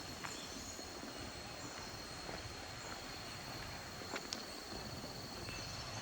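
Outdoor forest ambience: an insect drones on one steady high note throughout, with a few scattered faint clicks and ticks.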